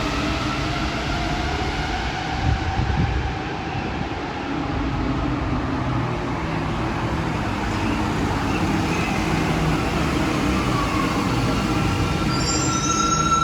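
Santiago Metro Line 5 train running through a station: steady rumble of wheels on rail with an electric motor whine that glides in pitch. Near the end a high, steady wheel squeal sets in.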